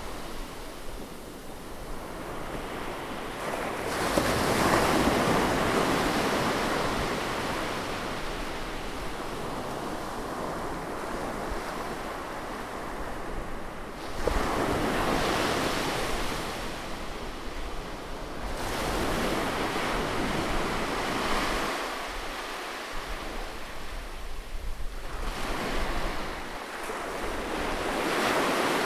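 Sea waves breaking and washing up a shore, recorded close. A large wave surges about four seconds in and another about fourteen seconds in, with smaller washes after that.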